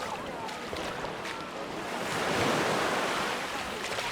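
Mediterranean waves breaking and washing up the shore, swelling louder about halfway through.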